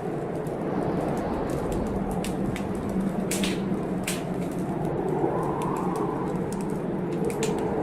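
Wood fire crackling with sharp irregular pops over the steady rush of heavy blizzard wind, which swells in a gust about five seconds in.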